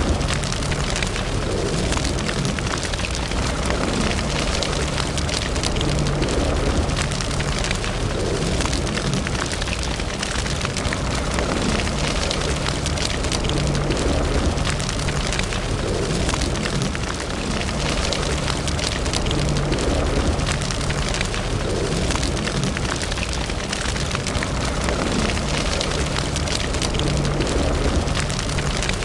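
Wood fire burning in a fireplace: a steady low rumble of flames with dense, continuous crackling and popping.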